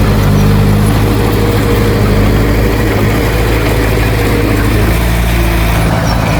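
Heavy diesel engine of earthmoving equipment running steadily at low revs, its note shifting slightly about halfway through.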